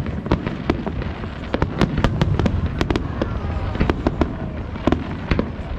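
Fireworks display: a rapid, irregular run of sharp cracks and bangs, several a second, over a continuous low rumble of booming shells.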